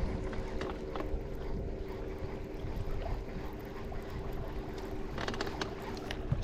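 Steady hum of a boat's motor, a few held tones under a low rumble, with wind on the microphone.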